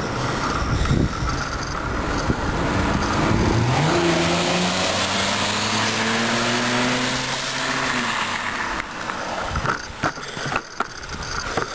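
A car passes the cyclist: its engine tone rises as it speeds up, holds steady, and fades out about two-thirds of the way through. Wind noise rumbles on the microphone throughout, and a few sharp knocks come near the end.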